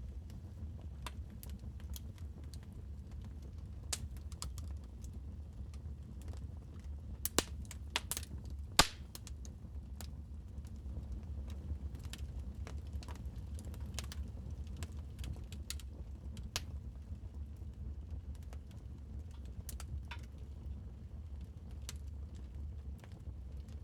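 Wood fire in a fireplace crackling: irregular sharp pops and snaps over a steady low rumble, with a cluster of louder pops about 7 to 9 seconds in.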